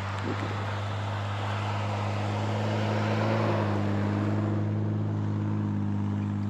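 A vehicle engine running steadily, with a rushing noise that swells around the middle and then fades away.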